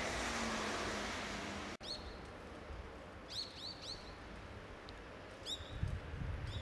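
Outdoor street noise, then after a sudden cut small birds chirping in short, sharp, downward-sweeping notes, a few at a time, with a low rumble near the end.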